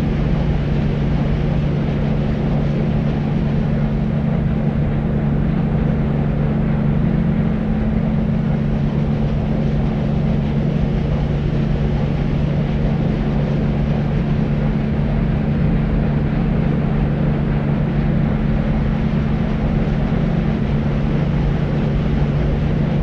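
Deep white noise: a steady, unchanging low rumbling hiss, weighted toward the bass with only a little hiss at the top.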